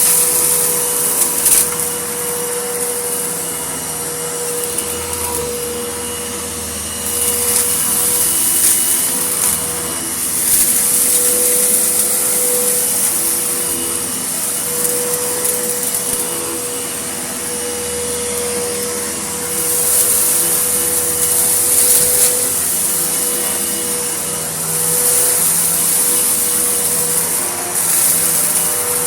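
Vacuum cleaner running on a gritty mess, with a steady motor whine and a rushing hiss that grows louder and fades again every few seconds.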